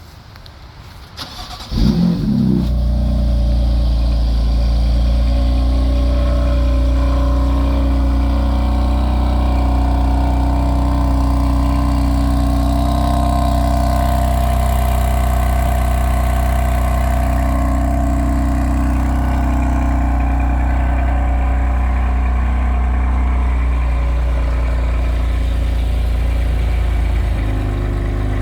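2018 BMW M3's twin-turbo inline-six (S55) cold-starting: a brief crank catches about two seconds in with a loud start-up flare, then the engine holds a steady, elevated cold idle. The idle note drops slightly near the end as it begins to settle.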